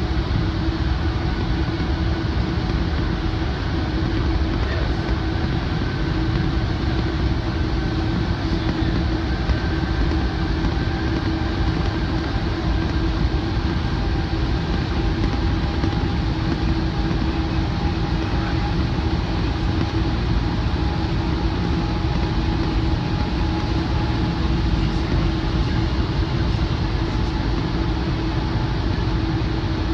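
Steady running noise inside a Metrolink Rotem passenger cab car moving at speed behind a diesel locomotive: a continuous low rumble of wheels on rail, with a steady hum and a faint whine that drifts slowly in pitch.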